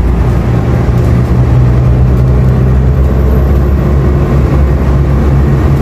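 Bus engine running and road noise heard from inside the moving bus: a loud, steady low drone.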